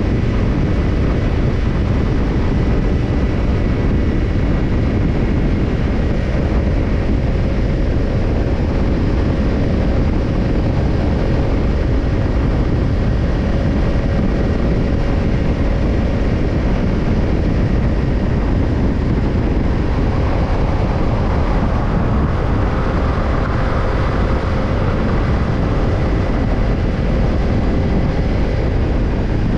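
Kawasaki Ninja 250's parallel-twin engine running steadily through a BEET Japan NASSERT Evolution Type II black titanium slip-on muffler, holding an even note with no clear revving up or down.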